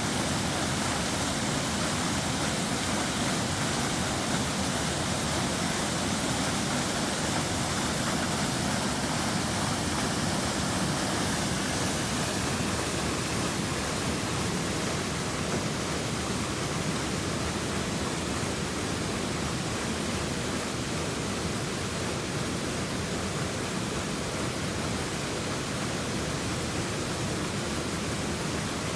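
Waterfall: falling water making a steady, even rush of noise with no breaks.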